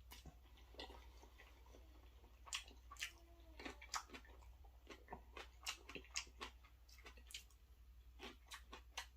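Close-miked chewing of creamy chicken, bacon and shrimp Alfredo pasta: soft, irregular wet clicks and smacks of the mouth, some sharper than others.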